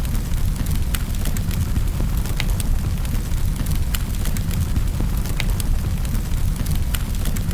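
Wood fire in a fireplace crackling: sharp little pops and snaps come irregularly, several a second, over a steady low rumble.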